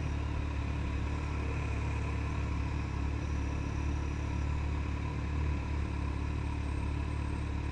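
Ducati 795's air-cooled L-twin engine running steadily, a low, even sound.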